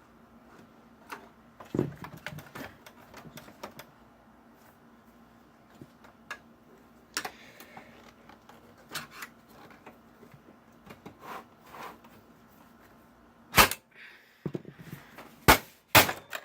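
Irregular clicks, taps and rattles of metal and plastic desktop-PC parts being handled and pried apart during a teardown, with a few loud sharp knocks near the end.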